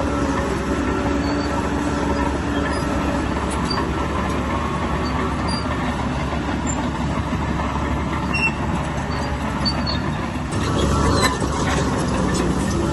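Heavy earthmoving machine's diesel engine running steadily under load, with a louder burst of clattering near the end.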